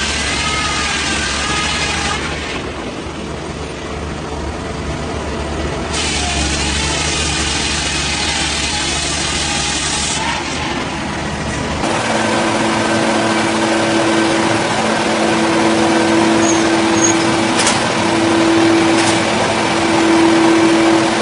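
Heavy engine-driven machinery running loudly. About twelve seconds in the sound cuts to a different machine with a steadier engine tone that swells and dips several times, and there are a couple of sharp clicks near the end.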